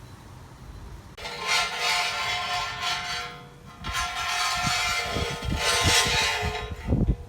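A power tool working metal in two runs of a few seconds each: a steady whine with a harsh hiss over it, with a short break between the runs.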